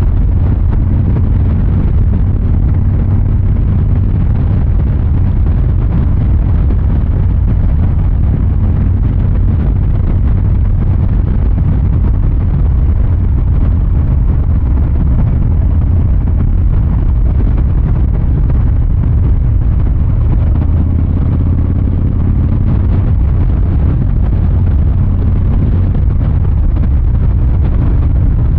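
Harley-Davidson Fat Boy 114's Milwaukee-Eight 114 V-twin running steadily through its exhaust, heard from the rider's seat, with no hard revving.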